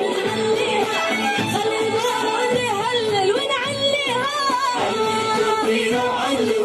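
A boy singing a Yemeni folk song in long, ornamented gliding runs without clear words, over a rhythmic beat.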